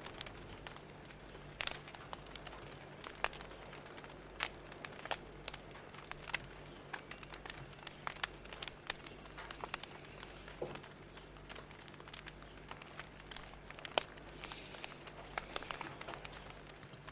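Fire crackling: irregular sharp pops and snaps over a soft steady hiss, with a faint low hum underneath.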